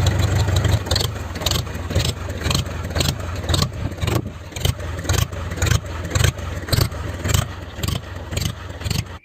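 Homemade tractor's engine running steadily, with a regular pulsing beat about twice a second.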